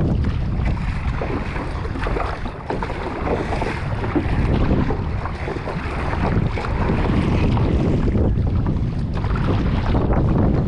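Strong wind buffeting the microphone on a kayak out on the water, a loud, uneven rumble, with water sounds around the boat.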